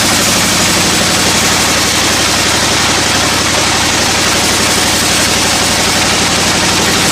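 Engine-driven sawmill machinery running steadily: a heavy engine hum with a fast, even pulse under a constant hiss.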